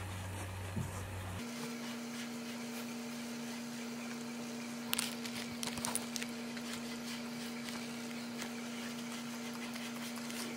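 Room tone with a steady electrical hum that shifts to a higher pitch about a second and a half in, with a few faint short clicks around five to six seconds in.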